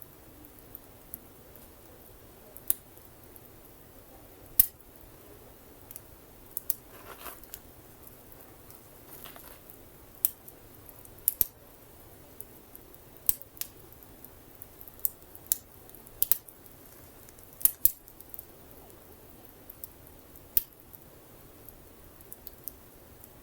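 Wood fire crackling: irregular sharp pops and snaps, some much louder than others, over a faint steady background.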